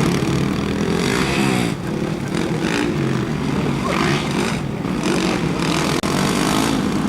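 Motocross bikes racing, their engines revving up and down continuously, with several engines overlapping.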